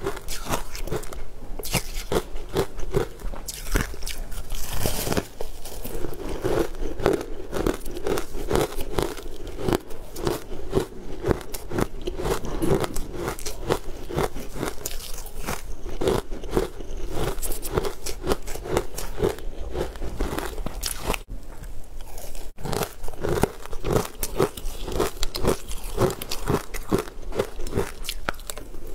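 A person biting and chewing crumbly green food close to a clip-on microphone: continuous crunching with many quick crackles over a steady chewing rhythm, easing briefly about three-quarters of the way through.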